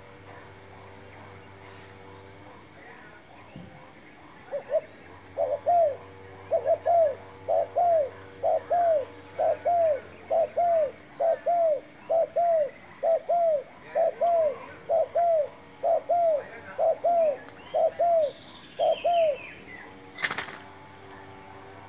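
Spotted dove calling: a long run of short, arched coos, about two a second, that starts a few seconds in and stops shortly before the end. A brief sharp clatter follows near the end.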